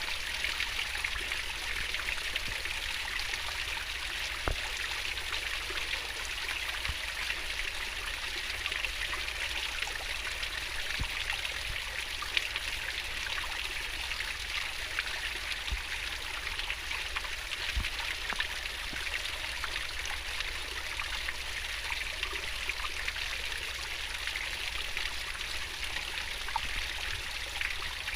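Fast-flowing river water babbling over stones, a steady rushing with small splashes scattered through it.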